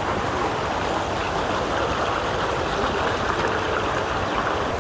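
Steady rush of running water from a garden stream and water feature.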